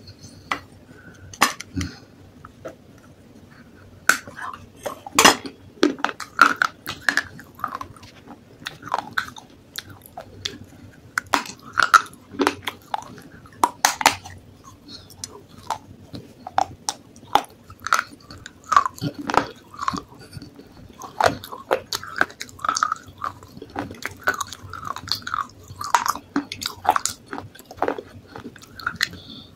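Close-miked crunching and chewing of baked clay pot pieces: irregular sharp cracks and crunches as the brittle clay is bitten and ground, with wet mouth sounds between them.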